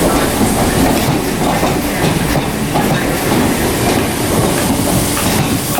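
Electric multiple-unit train moving along the platform, with steady wheel-on-rail noise.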